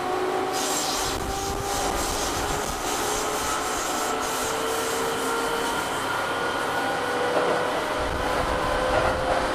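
Keihan 6000 series electric train heard from inside the car while running: wheel-on-rail rumble and hiss, with a motor whine whose pitch slowly rises as the train gathers speed, then levels off.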